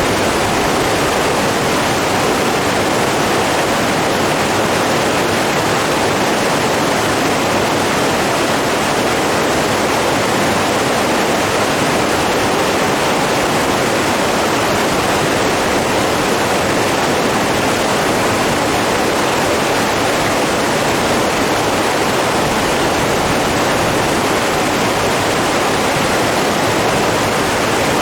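Rushing water, a steady, unchanging rush like a stream or waterfall, with no other sounds standing out.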